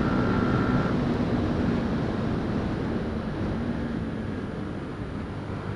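Yamaha WR125X supermoto's single-cylinder four-stroke engine pulling at high revs, then easing off about a second in, with steady wind and road noise as the bike rides on. The sound slowly gets quieter.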